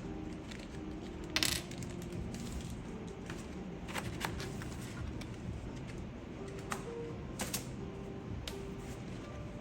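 Scattered hard clicks and clacks of small keyboard parts being handled and set down, the loudest about a second and a half in, over faint background music.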